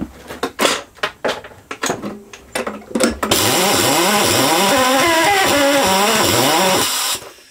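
A few clicks and knocks of handling, then about a second in from the halfway point a Homelite V35 lawnmower engine is spun over with a power tool for about four seconds, the motor's whine wavering up and down, before it cuts off suddenly. The engine nearly fires but does not catch.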